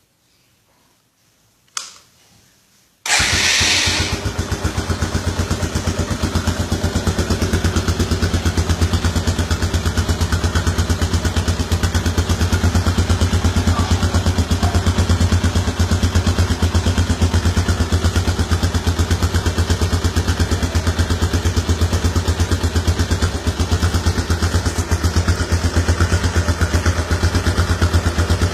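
Suzuki Gixxer's single-cylinder engine with an aftermarket exhaust: a short click about two seconds in, then the engine starts about a second later and settles into a steady, evenly pulsing idle.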